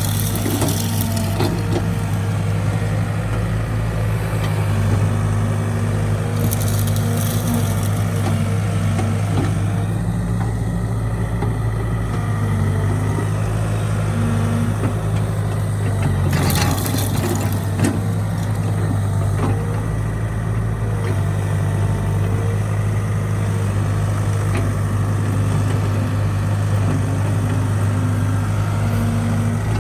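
Heavy machinery's diesel engine running steadily at a constant speed, with three brief rushing noises, near the start, about seven seconds in and about seventeen seconds in.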